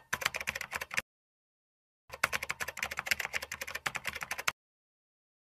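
Computer keyboard typing sound effect for on-screen text being typed out: two runs of rapid key clicks, the first lasting about a second, then a second-long pause, then a longer run of about two and a half seconds.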